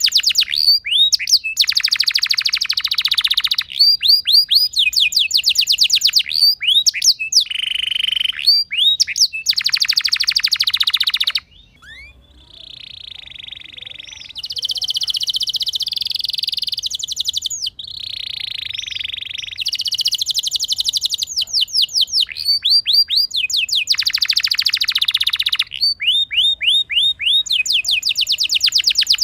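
Canary singing a long rolling song: runs of fast, repeated downward-sweeping notes alternate with buzzy, rattling rolls, with a short break about twelve seconds in.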